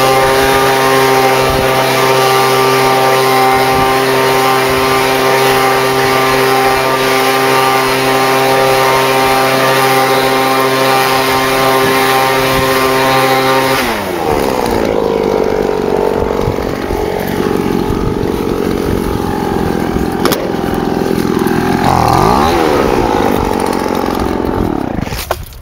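Lawn mower engine running at a steady high speed, its pitch held level; about fourteen seconds in the engine speed drops and wavers up and down before the sound cuts off near the end.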